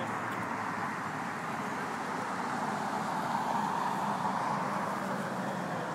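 Steady road traffic noise, swelling a little around the middle as a vehicle goes by.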